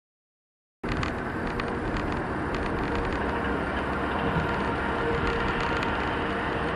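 Steady road and engine noise of a car driving, heard from a dashcam inside the cabin, starting abruptly about a second in after dead silence.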